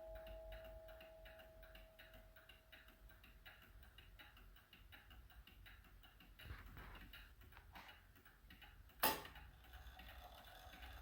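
Seth Thomas beehive mantel clock ticking steadily and faintly, with the ring of its last strike fading away over the first few seconds. A single sharper knock comes about nine seconds in.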